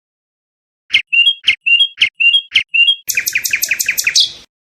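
A songbird singing one phrase: about five repeated sharp two-part notes, roughly two a second, then a fast high trill that stops abruptly.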